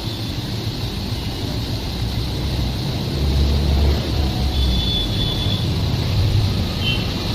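Train running with a steady low rumble, swelling louder for about a second partway through.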